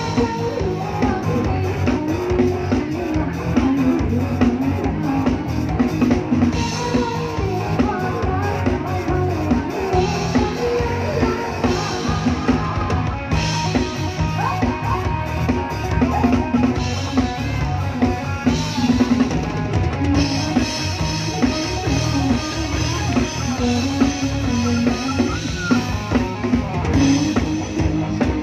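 Live band playing an instrumental passage with a steady drum-kit beat.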